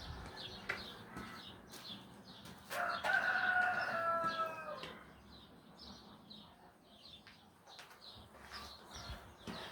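Birds: one long, drawn-out call begins about three seconds in and lasts about two seconds, its pitch sagging slightly at the end. Faint, short, high chirps repeat throughout.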